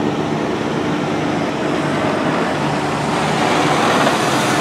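Aircraft engine noise: a steady mix of rumble and hiss with a faint high whine, growing slowly louder.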